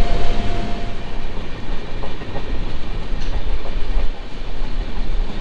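LHB passenger coach of the Hirakud SF Express running at speed, heard at its open door: a steady rumble and clatter of the wheels on the rails.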